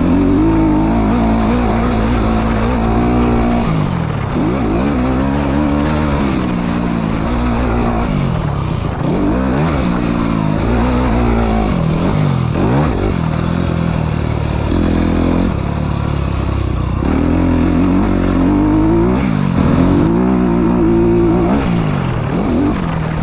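Honda CRF four-stroke motocross bike being ridden hard, the engine revving up and falling back again and again as the rider opens and closes the throttle.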